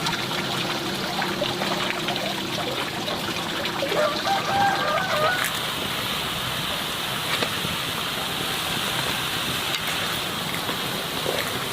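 A chicken gives a short pitched call about four seconds in, over a steady hiss.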